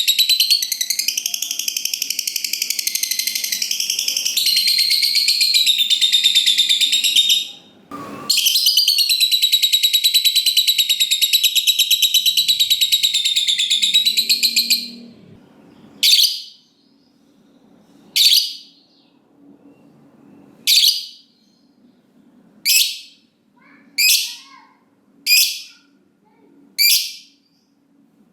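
Lovebird's long, rapid, high-pitched chattering trill ('ngekek panjang'), lasting about seven seconds. It breaks off briefly at a click, then runs on for about another seven seconds. After that come single sharp calls, one every one and a half to two seconds.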